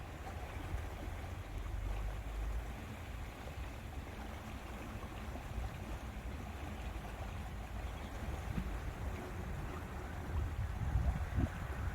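Wind buffeting the microphone in an uneven low rumble, over a steady hiss of wind and lake water; a stronger gust comes near the end.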